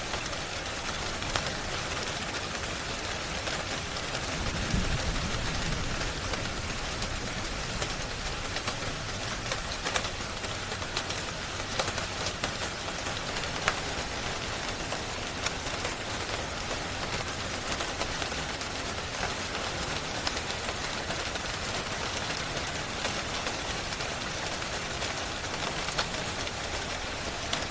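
Steady rain falling, with scattered sharp crackles and pops of a wood fire, and a brief low rumble about five seconds in.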